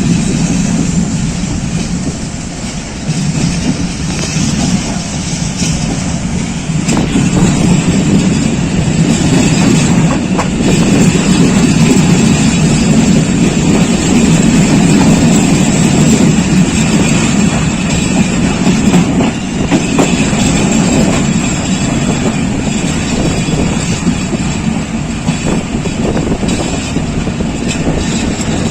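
The 48DN Rehman Baba Express passenger train passing at steady speed, a loud continuous rumble of wheels on rails that grows louder about seven seconds in and stays up.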